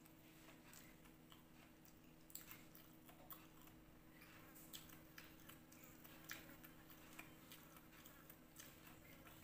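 Faint sounds of a person eating by hand: quiet chewing and small irregular clicks, over a low steady hum.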